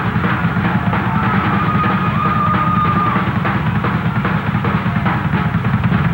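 A rock band playing live, with a loud drum kit to the fore: dense drum hits over a heavy low end. A high held note sounds between about one and three seconds in. The recording is rough and raw.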